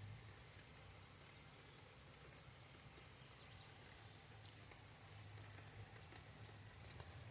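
Near silence: faint outdoor background with a low hum and a few scattered faint ticks.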